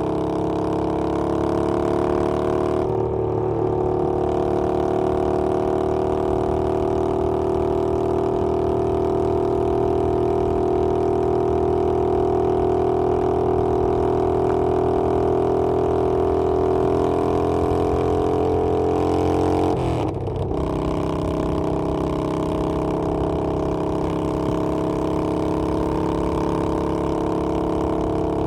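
Harley-Davidson Sportster Iron 883's 883 cc air-cooled V-twin running under way, its note climbing slowly with road speed. There are short breaks about 3 seconds in and again about 20 seconds in, each followed by a lower note, as the rider shifts up a gear.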